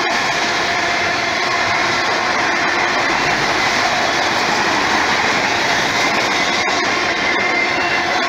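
Norfolk Southern autorack freight cars rolling past at speed: a steady, loud rush and rumble of steel wheels on rail.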